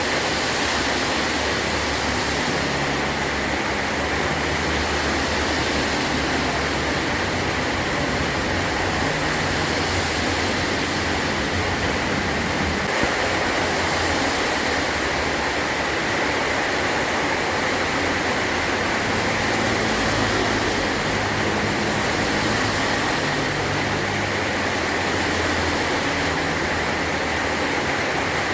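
Heavy rain falling steadily on a tin roof, an even, unbroken hiss.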